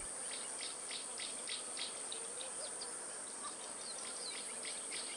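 Insect chorus: a steady high-pitched drone with short chirps repeating about three times a second.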